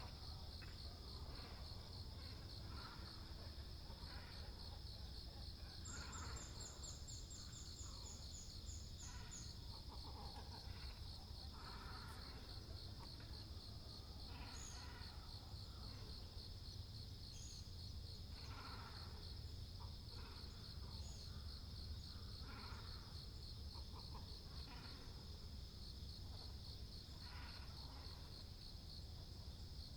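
A colony of great cormorants and herons gives irregular croaking calls every second or two, under a steady high insect trill. About six seconds in, a small bird adds a quick run of high notes.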